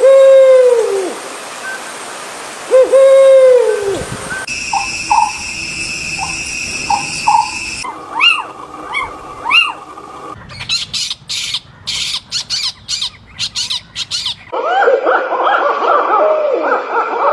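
A string of different bird calls that changes abruptly every few seconds. It opens with two loud drooping calls about three seconds apart, then short repeated chirps and rising notes, then a fast run of sharp clicking notes, and ends with a dense chorus of overlapping calls.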